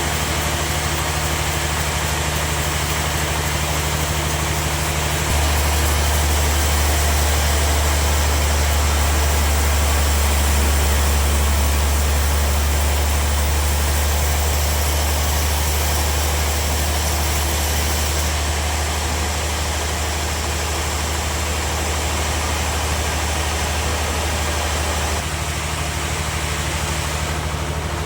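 Sawmill machinery running steadily, a constant motor drone with a low hum and a broad hiss above it. The low hum grows heavier about five seconds in and drops back a few seconds before the end.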